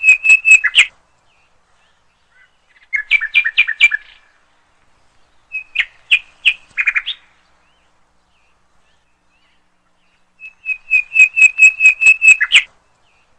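A bird chirping in phrases of rapid, evenly repeated high notes, several a second. The phrases come every few seconds, with silence between them.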